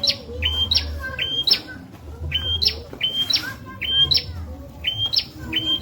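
Prenjak (prinia) singing: a short, sharp chirping phrase that steps up in pitch, repeated about once a second, with a low rumble under each phrase.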